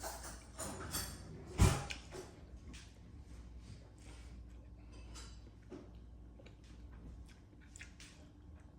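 Close-miked eating sounds: wet mouth smacks and chewing of noodles and rice, with scattered small clicks. A sharp knock about a second and a half in is the loudest sound.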